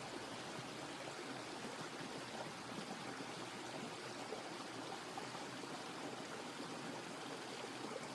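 Steady running water from a garden pond's waterfall.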